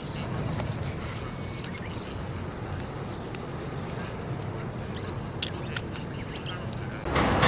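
Outdoor riverbank ambience with a steady high whine, a faint regular high chirp and scattered small crackles from the campfire. About seven seconds in, a loud rushing noise comes in.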